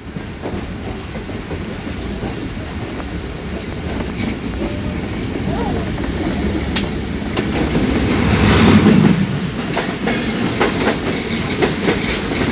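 Passenger train running on the rails, heard from inside a coach: a steady rumble with the clickety-clack of wheels over rail joints. It grows louder over the first several seconds and is loudest about two-thirds of the way through.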